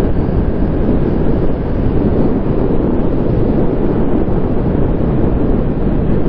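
Wind rushing over a motorcycle rider's camera microphone at riding speed: a loud, steady, even roar.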